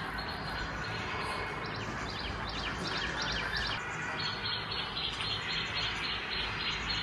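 Birds chirping: a quick series of short high calls, then a steady run of about four high chirps a second from about four seconds in, over a constant background hiss.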